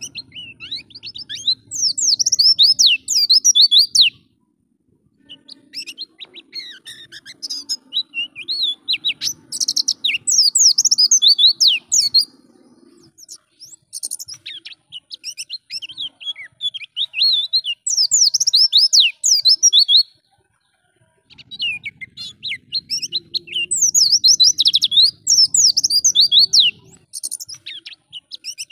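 A white-eye (pleci) singing in fast, high, twittering phrases several seconds long, with short pauses between them.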